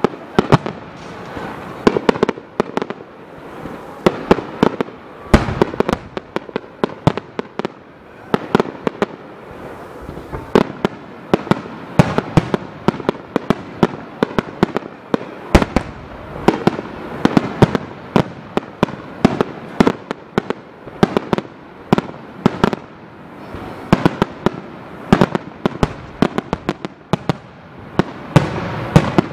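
Aerial fireworks shells bursting in rapid succession, dense sharp bangs several a second with a continuous rumble between them, as in a starmine barrage.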